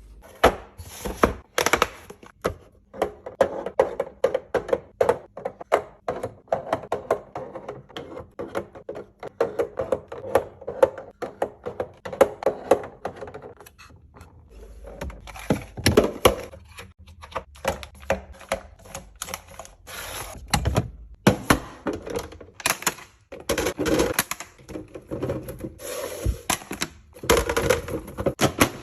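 Rapid, irregular clicks, taps and knocks of food packaging and plastic containers being handled and set down while a fridge is restocked, with short stretches of rustling between them.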